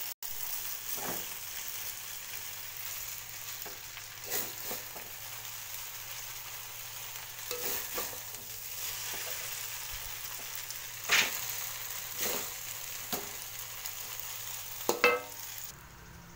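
Rice vermicelli sizzling as it is stir-fried in a metal wok: a steady frying hiss, broken every few seconds by the scrape and knock of a metal utensil against the pan, loudest twice in the second half. The sizzle drops away just before the end.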